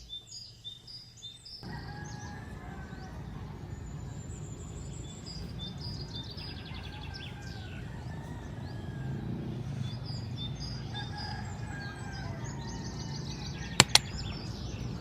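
Birds chirping in rapid repeated high notes over a steady low outdoor rumble, with two sharp clicks close together near the end.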